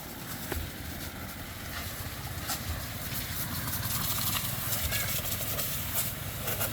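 An engine running steadily with a low hum, with scattered sharp clicks over it.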